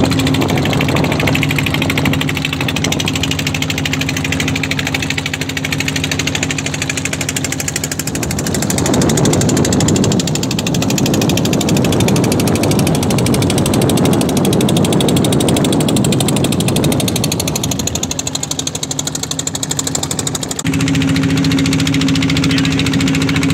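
A boat's engine running with a fast, even knocking beat. From about eight seconds in its steady hum turns rougher and noisier for some ten seconds, then the steady tone returns near the end.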